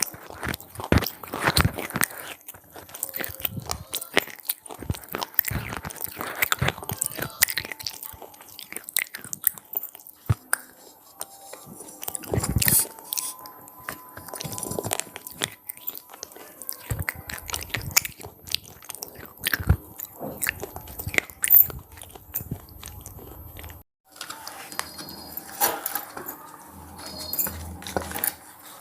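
Someone biting and chewing crunchy cheese pizza-flavoured puffed corn snacks close to the microphone, with many sharp crackling crunches throughout and a brief gap about three-quarters of the way through.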